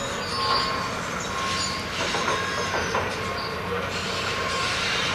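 A train passing on steel rails: steady wheel-on-rail noise with a faint high wheel squeal and a few clicks.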